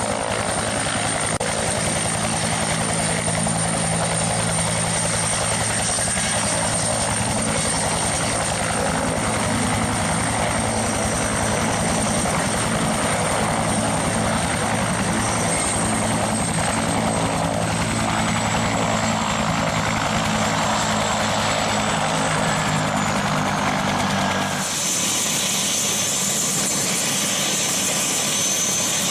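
Steady, loud machine running, a dense whir over a low hum, whose sound changes abruptly about 25 seconds in.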